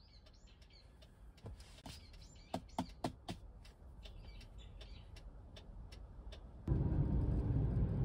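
Faint bird chirps with a few sharp clicks, then, near the end, the steady low rumble of a car driving on the road starts abruptly.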